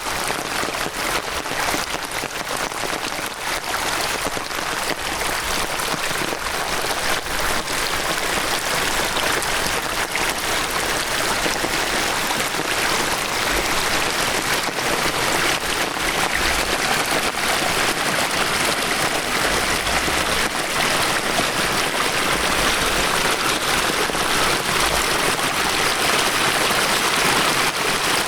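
Heavy downpour of rain with many close drops pattering, over rushing water that grows slightly louder toward the end.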